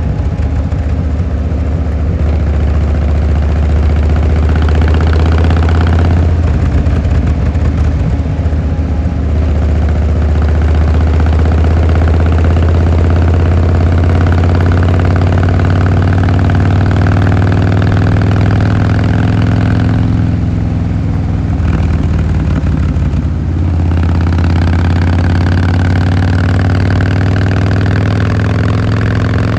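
Harley-Davidson Fat Boy Lo's V-twin engine and exhaust running loud on the move, its pitch rising and falling as the revs change, with two easings of the engine note around six and twenty seconds in.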